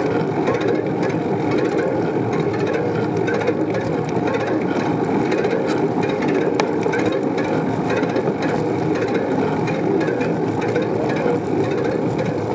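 Steady rushing noise of riding a bicycle, mostly wind buffeting the microphone along with tyre and road noise, holding level throughout.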